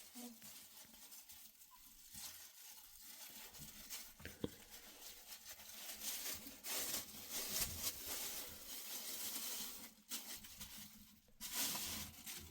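Irregular rustling and crinkling, with louder swells about halfway through and near the end and a few small clicks.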